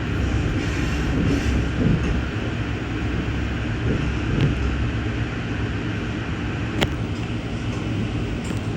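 Passenger train rolling on the rails, heard from inside the car: a steady low rumble with one sharp click about seven seconds in.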